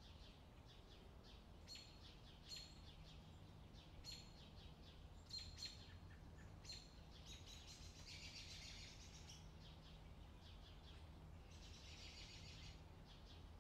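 Faint bird chirping: short high chirps every second or so, with two longer bursts of rapid twittering about eight and twelve seconds in, over a faint low hum.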